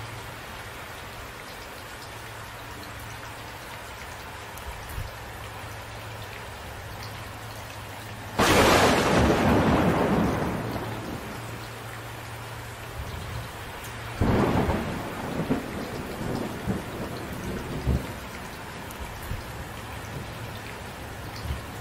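Steady rain with two thunderclaps: a sharp, loud crack about eight seconds in that fades over a couple of seconds, then a weaker clap some six seconds later that rolls on in low rumbles for a few seconds.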